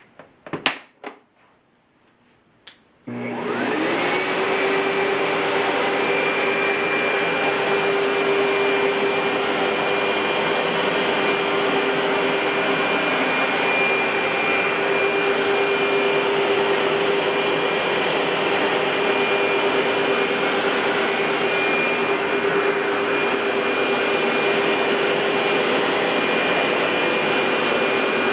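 A few sharp clicks, then the SEBO-built Century 400 U-Vac (UPV 12) commercial upright vacuum cleaner switches on about three seconds in. Its motor spins up over about half a second and then runs steadily with a high whine over a loud rush of air.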